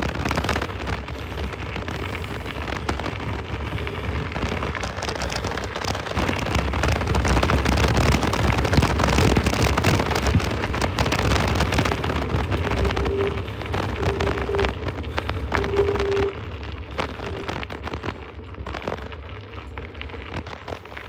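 Dog-towed scooter's wheels rolling over a rough dirt trail: a steady rattling rumble full of small ticks, louder for a stretch in the middle and easing off about two-thirds through. Three short tones come near that point.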